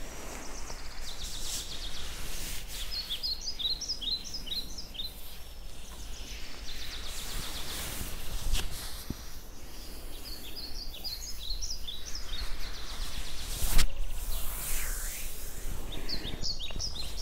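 A songbird singing in three separate phrases, each a quick run of short, high, falling notes, over steady outdoor background noise. A single sharp thump sounds about 14 seconds in.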